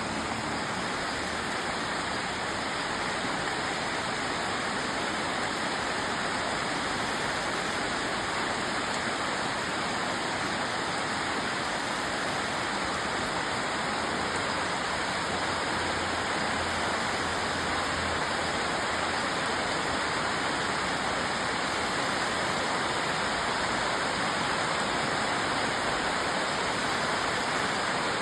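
Heavy rain falling steadily, a dense, even hiss of water with no separate drops standing out.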